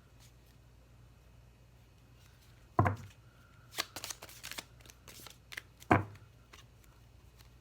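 Tarot cards being shuffled and handled: two dull thuds about three seconds apart, with a run of crisp card clicks and rustles between them.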